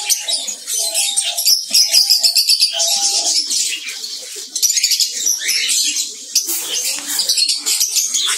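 A roomful of cockatiels chirping and chattering, many calls overlapping without a break, with a few short, lower steady notes in the first three seconds.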